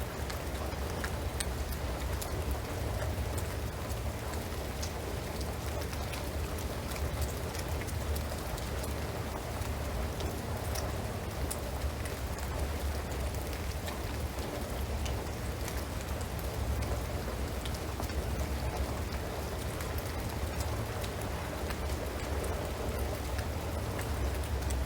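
Steady rain falling on a shingled roof and pine trees: a constant hiss of rainfall with many scattered drips ticking through it, over a steady low rumble.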